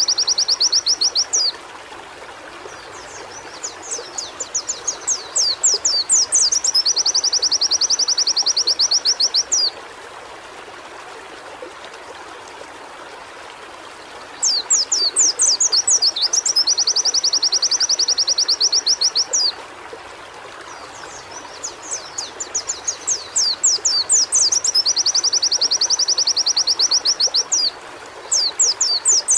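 Pleci (white-eye) singing: bursts of quick sweeping high notes that run into a fast, even, high trill lasting two or three seconds, the phrase repeated about every ten seconds over a steady background hiss.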